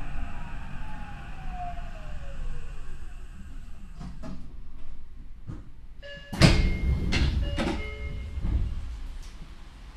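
Inside a Tokyo Metro 8000 series car: the Mitsubishi IGBT inverter motor tone falls steadily in pitch as the train brakes to a stop. About six seconds in, the doors open with a sudden loud rush and a few short steady tones.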